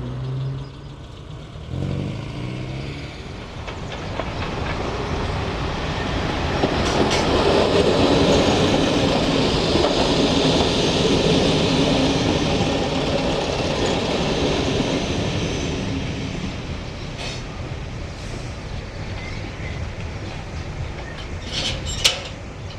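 A train passing on the railway: the rumble and rail clatter build over several seconds, are loudest in the middle and then fade away. A single sharp click sounds near the end.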